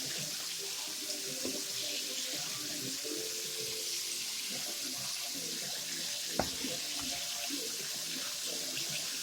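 Chicken wings deep-frying in hot grease: a steady sizzle, with one sharp knock about six seconds in.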